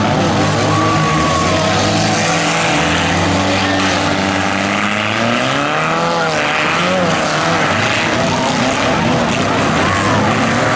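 Several democross cars' engines revving up and down together as they race around a dirt track, their pitches rising and falling over one another.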